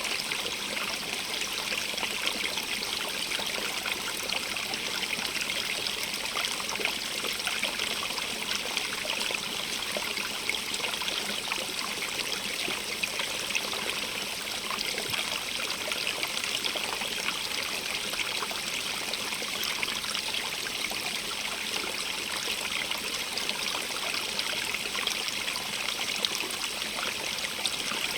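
Small stream running and trickling over stones, a steady splashing rush with many small flickering splashes.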